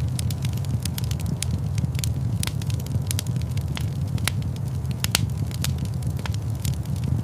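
Wood fire crackling in a large stone fireplace, with frequent sharp, irregular pops and snaps over a steady low rumble.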